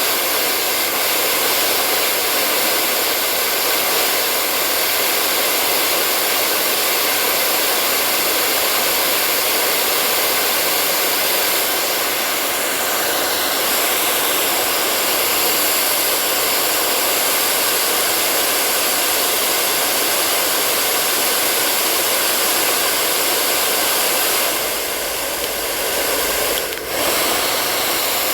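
Hair dryer blowing steadily: an even rushing hiss of air with a faint steady whine in it. Near the end the sound briefly shifts, with a deeper rumble and a short dip in level.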